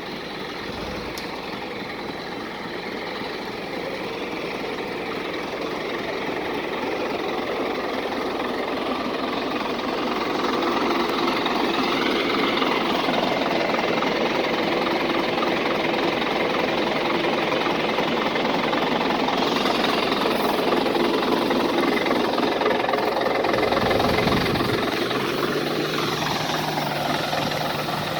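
Scania 113H 320 truck's 11-litre six-cylinder diesel engine running, growing louder over the first ten seconds and then holding steady; a low steady hum comes in near the end.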